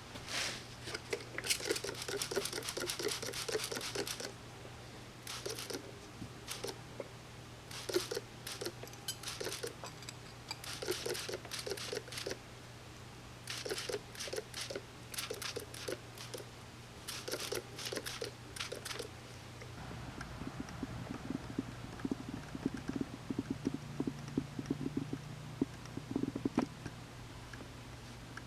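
Repeated runs of quick, scratchy hand strokes, several a second, stopping and starting every few seconds, over a steady low hum. In the last third the strokes turn duller and lower.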